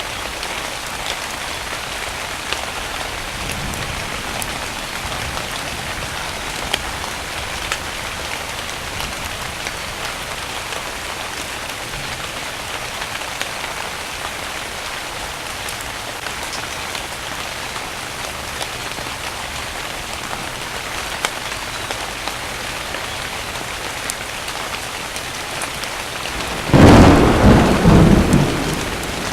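Steady heavy rainfall with scattered drop ticks, then a sudden loud crack and rumble of thunder near the end.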